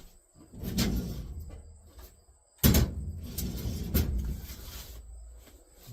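Workshop handling noises on the wooden dolly and its carpet: a knock and a brief scrape about a second in, then a loud sharp knock about two and a half seconds in, followed by a few lighter knocks and a scraping, rustling noise that fades away.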